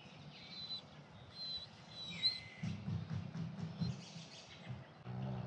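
Songbirds chirping and whistling in short phrases. A low hum comes in about two and a half seconds in.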